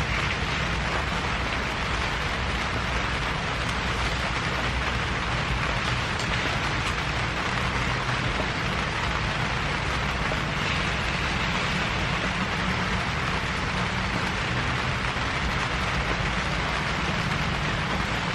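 Steady rain falling, a continuous even hiss of raindrops, with a low steady rumble underneath.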